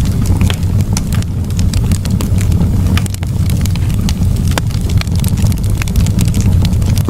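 Campfire burning, with many sharp crackles and pops over a steady low rumble.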